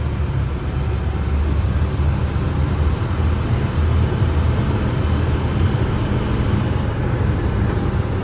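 Steady low drone of a 2011 International WorkStar 7300 bucket truck's engine heard from inside the cab as it drives slowly, with road noise and the air conditioning blowing.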